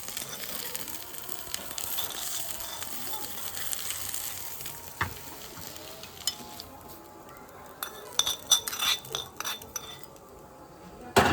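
Eggs frying in hot oil on a pan, sizzling steadily, then fading after about six seconds. Metal clinks and scrapes of a spatula on the pan follow, then a sharp knock near the end.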